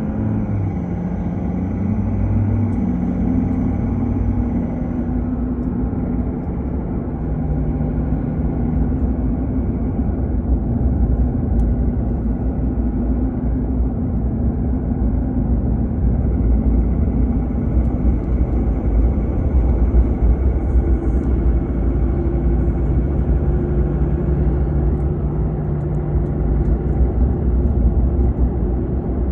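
A car driving at a steady pace: continuous low road and engine rumble, with the engine's hum shifting in pitch now and then.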